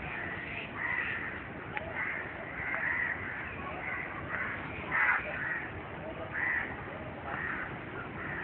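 Short bird calls repeating about once a second, over the steady rushing of a flooded river.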